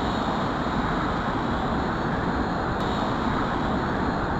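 Steady wind noise rushing over the microphone in high wind.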